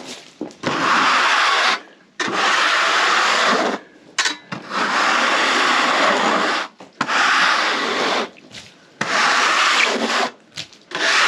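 Hand scraper drawn over the wet, freshly sawn American elm surface in long scraping strokes, about six of them, each lasting a second or two with short pauses between.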